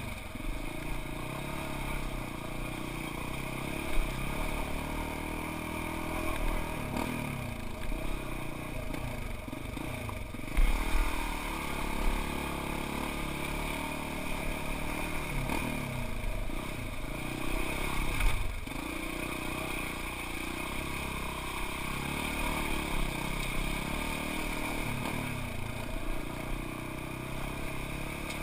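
Off-road vehicle engine running under varying throttle as it crawls over rough ground, its pitch rising and falling, with clattering jolts from the rocks, the sharpest about 4, 10 and 18 seconds in.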